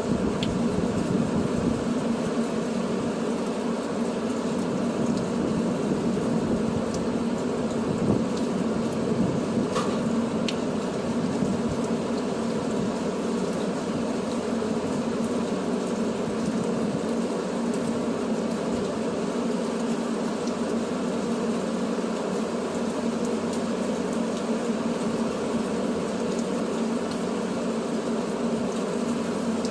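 Tow truck's engine running at a steady speed, a constant low drone with a rushing noise over it.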